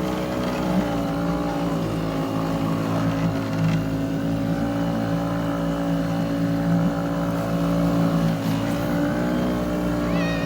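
Small motors of bumper boats running steadily, a continuous engine drone that wavers slightly in pitch now and then.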